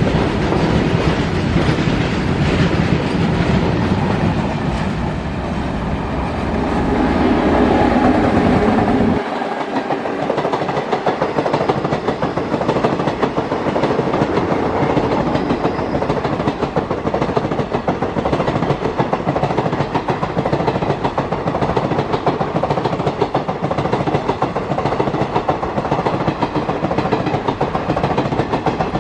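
A freight train of covered wagons rumbling and clattering past at speed, then, about nine seconds in, an abrupt change to a passenger express's coaches rolling past with a steady clatter of wheels over the rails.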